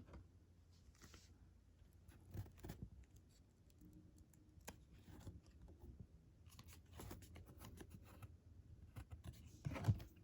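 Trading cards from an opened pack being handled and flipped one by one: faint slides, flicks and small clicks of card stock against card stock, with a few slightly louder flicks.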